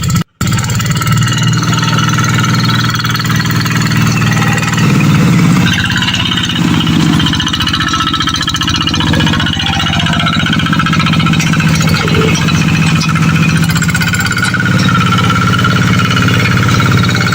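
Tractor engine running steadily, its note shifting a few times around five to seven seconds in.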